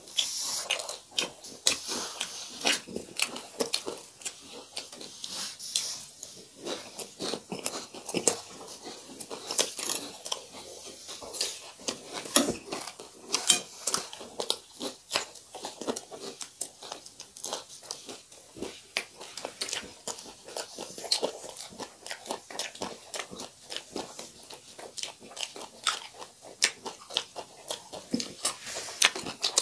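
A person chewing and crunching mouthfuls of crisp food, beaten rice (chiura) with fried chicken, close to the microphone: dense, irregular crackles and crunches throughout, with a few louder crunches around the middle.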